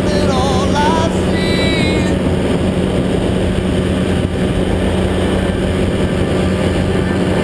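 Paramotor engine and propeller running at a steady, even drone with rushing noise over it. For the first two seconds a melodic pitched line rides on top of it, the tail end of music or singing.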